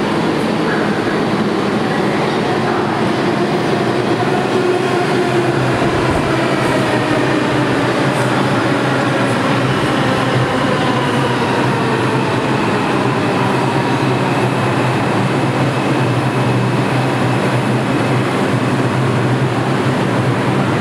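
New York City Subway R142 train running through the station, steady wheel-on-rail noise under the whine of its electric propulsion, which falls in pitch as the train slows.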